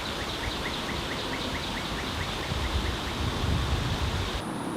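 A bird singing a rapid series of short, evenly repeated notes, about four or five a second, for about three seconds, over steady outdoor background noise. Near the end the background noise drops away abruptly.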